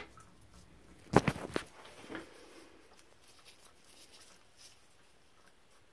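A quick cluster of sharp clicks and knocks about a second in, then a softer knock, then faint scattered ticks: small metal parts and tools being handled while a shower valve is reassembled.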